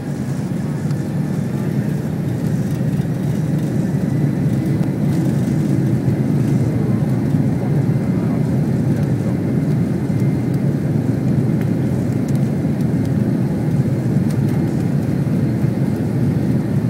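Airliner's jet engines at takeoff power heard from inside the cabin: a loud, steady low rumble that builds slightly over the first few seconds and then holds.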